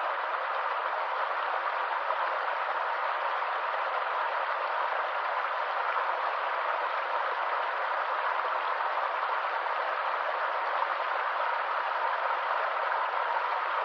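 Stream water rushing and splashing over rocks in a steady, unbroken wash.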